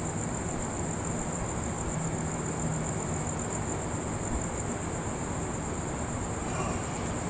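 Crickets chirring in one steady, unbroken high note, over a continuous low background noise.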